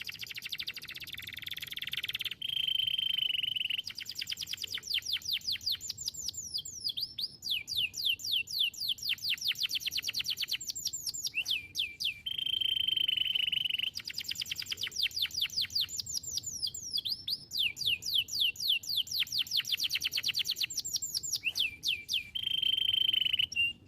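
Domestic canary singing a long, continuous song of fast trills made of repeated downward-sliding notes, broken three times by a steady held whistle lasting a second or two. The song stops just before the end.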